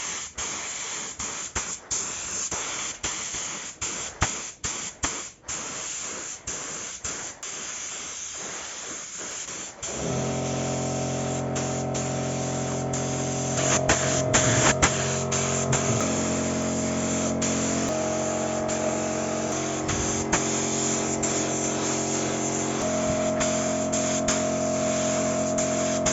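Aerosol spray paint can hissing in a string of short bursts with brief gaps. About ten seconds in, music with steady held chords comes in, and the spray hiss runs on beneath it.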